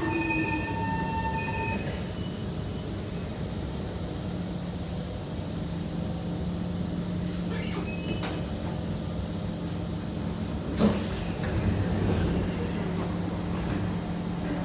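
Inside a Kawasaki C151 metro car standing at a platform with its doors open: a steady low hum from the idling train, with a couple of steady tones that stop about two seconds in. There are a few faint clicks, then a single sharp knock most of the way through.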